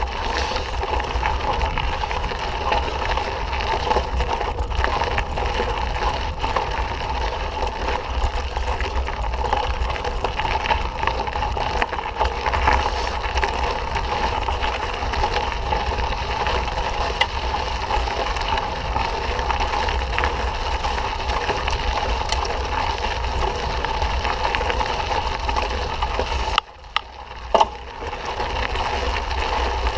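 Steady rushing, rattling noise of a mountain bike being ridden on a dirt trail. Near the end it drops out for about a second, with a couple of sharp knocks.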